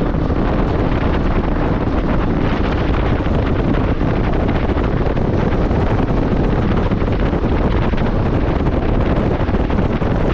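Steady, loud wind rush on the microphone of a moving motorcycle.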